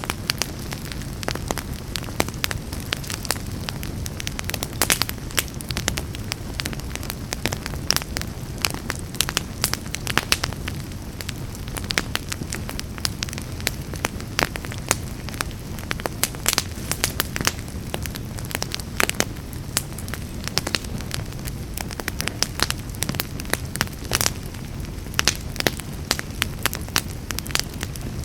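Wood fire burning in a fireplace: a steady low rumble of flames with frequent, irregular crackles and sharp pops.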